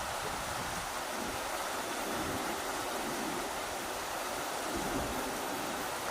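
Rushing river water making a steady, even roar, with irregular low gusts of wind buffeting the microphone.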